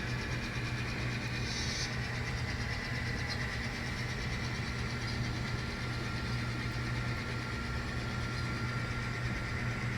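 N scale model locomotive running, a steady low hum with a faint thin whine above it.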